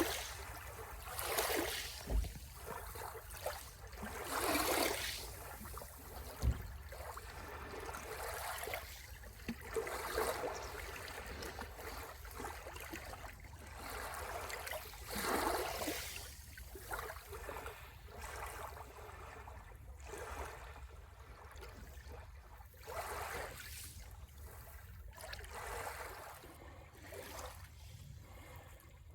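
Sea waves washing in on the shore, one rising and falling wash of hiss after another every few seconds, over a steady low rumble. Two brief low thumps come in the first seven seconds.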